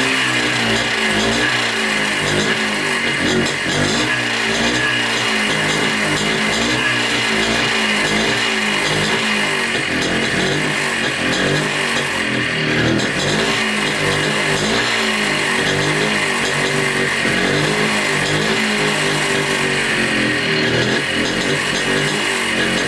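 Montesa Cota 247's single-cylinder two-stroke engine running after 42 years laid up, its revs rising and falling unevenly. The engine is not yet adjusted: the carburettor and idle still need setting.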